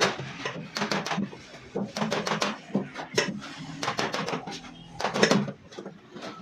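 Quick runs of hammer taps on the sheet-metal body panel of a car during dent repair, sharp knocks coming in clusters every second or so.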